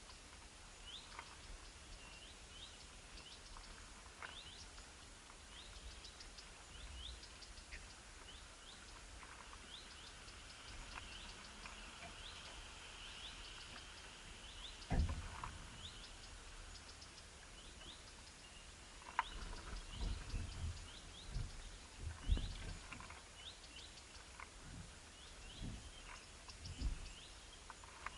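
Small birds chirping over and over in short, rising notes. Several dull thumps come about halfway through and again in a cluster later on.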